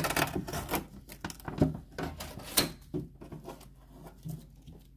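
Irregular scraping, rustling and sharp clicks of stickers and protective film being peeled by hand off a new fridge freezer. Two louder snaps come between one and three seconds in, and the sound quietens toward the end.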